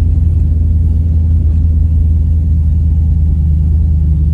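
Camaro's engine and exhaust running steadily at low speed, a deep even rumble with no revving, heard from inside the car.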